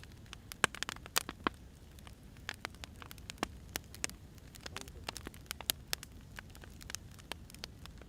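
Wood fire crackling: irregular sharp pops and snaps from the burning logs over a low, steady rumble.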